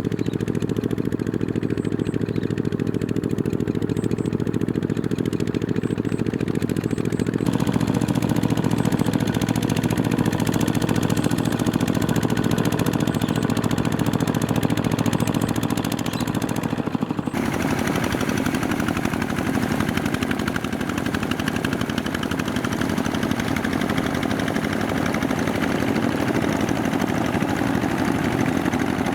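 Small diesel tractor engine running steadily while ploughing a field, with a rapid, even knocking beat. The sound shifts abruptly twice, about a quarter and about three fifths of the way through.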